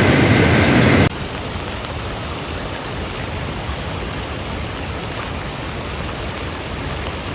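Steady rain falling, an even hiss. About a second in, a louder noise cuts off abruptly and the quieter rain carries on.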